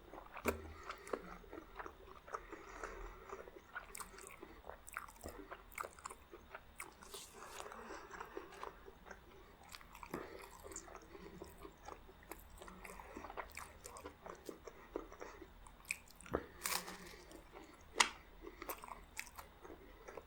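A person eating close to the microphone: steady chewing and biting with crisp, irregular crunches, a few sharper and louder ones near the end.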